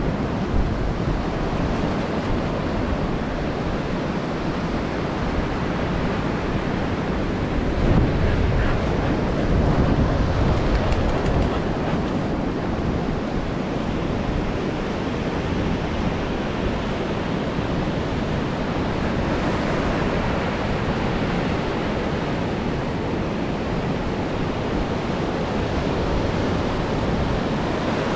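Ocean surf washing onto the beach, with wind rumbling on the microphone. A wave breaks a little louder about a third of the way in.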